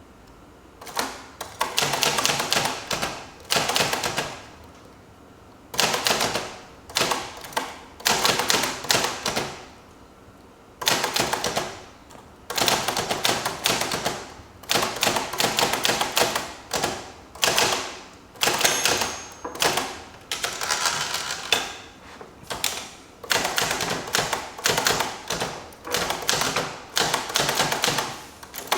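Typewriter being typed on: runs of rapid key strikes broken by short pauses, the rhythm of someone copying out text.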